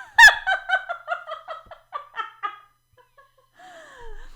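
Woman laughing: a loud first burst, then a run of quick ha-ha pulses, about four a second, that fade out after about two and a half seconds.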